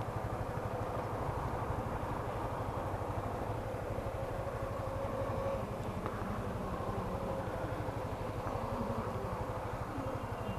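Motorcycle engine running steadily at low revs, a fast even pulse with no revving.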